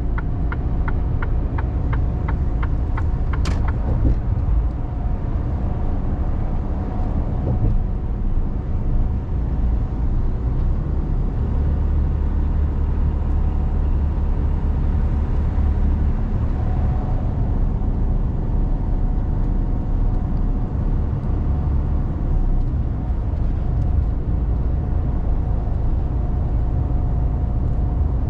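Mercedes-Benz Actros truck heard from inside the cab while driving, a steady low engine and road rumble. A quick, regular ticking runs for the first few seconds, and a single brief sharp sound comes about three and a half seconds in.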